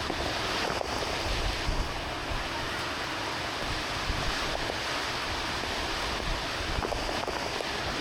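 Steady downpour of rain, an even hiss with a low, uneven rumble of wind on the microphone.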